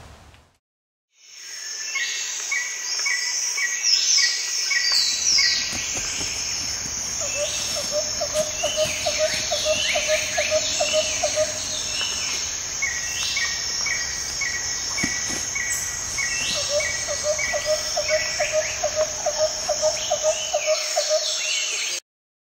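Rainforest ambience: a steady high-pitched insect chorus with many bird calls over it, falling whistles and runs of short chirps, and a lower rapid pulsing call that comes in twice. It fades in about a second in and cuts off suddenly near the end.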